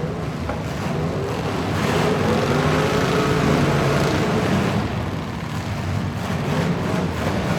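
Truck engine running under load, its pitch rising and falling as it revs.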